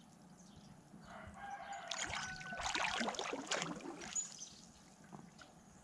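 A rooster crowing once, a single call of about three seconds starting about a second in, with small birds chirping around it.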